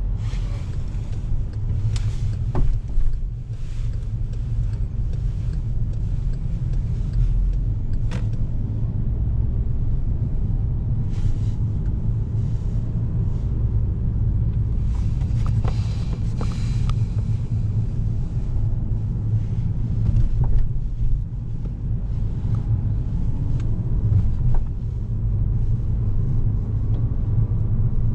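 A 2011 Volkswagen Golf VI's 1.4 TSI four-cylinder engine and its tyres on the road while driving: a steady low rumble, broken by occasional short knocks.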